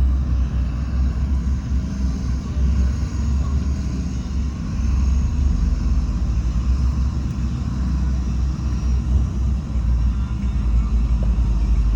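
Heavy diesel earthmoving machinery running steadily: a deep, continuous engine rumble.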